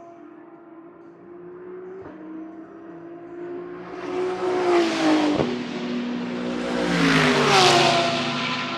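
GT3 race cars at full throttle on a straight: a steady engine drone, then two cars pass close in quick succession, about two seconds apart, each with a sharp drop in pitch as it goes by. The second pass is the loudest.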